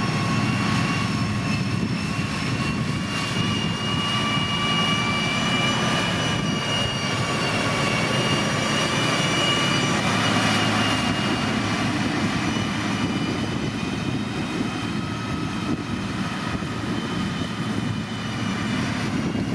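Diesel engine of heavy road-building machinery running steadily under load: a deep engine hum with a high, thin whine riding on top.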